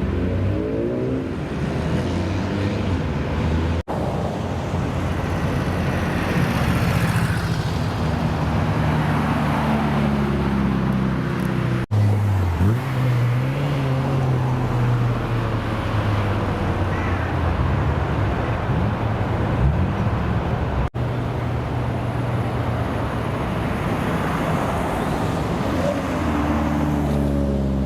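Car engines running and revving in several short clips, one after another, with the pitch rising and falling as engines rev and pull away; the sound changes abruptly about 4, 12 and 21 seconds in as one car's clip gives way to the next.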